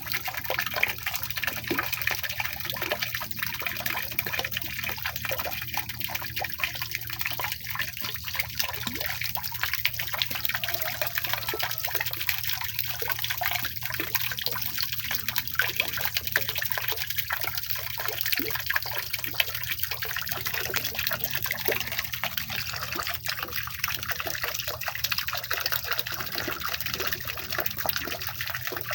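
Small water fountain in a mini aviary, trickling and splashing steadily.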